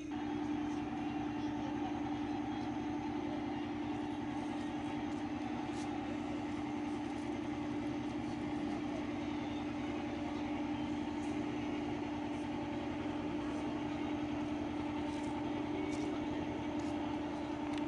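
Boat engine running steadily at a constant speed, an even, unchanging drone.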